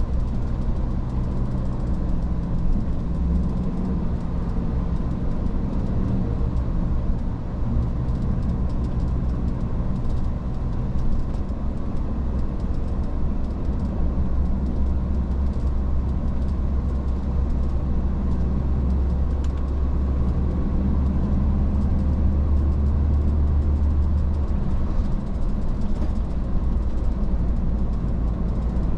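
Iveco S-Way truck running steadily on the road, a continuous low engine hum over tyre and road noise. The hum grows somewhat louder about twenty seconds in and eases again near the end.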